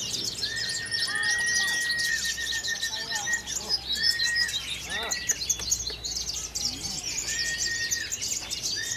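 Many caged songbirds singing at once: a dense chorus of overlapping high chirps and trills, with one long whistled note repeated several times.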